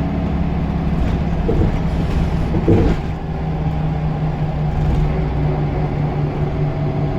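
Scania L94UB bus's diesel engine running steadily, with a brief louder rattle a little under three seconds in.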